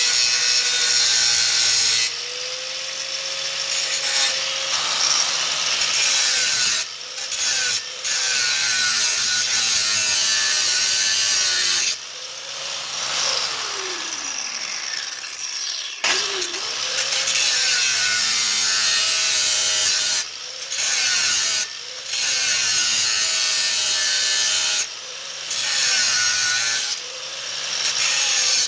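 A saw cutting metal, a rasping back-and-forth grind with a wavering pitch, heard in several short stretches separated by abrupt breaks.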